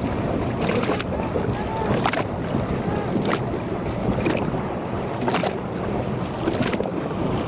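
Motorboat running steadily at speed, with wind buffeting the microphone and water splashing against the hull, and a sharp slap about once a second.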